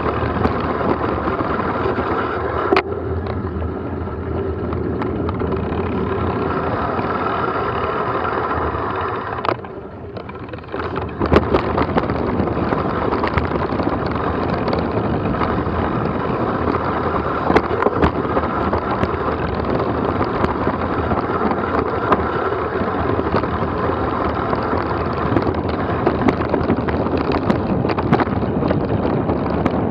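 Wind buffeting the microphone and gear rattling over rough ground on a fast trail descent. Frequent sharp knocks from bumps run through it, with a short lull about ten seconds in.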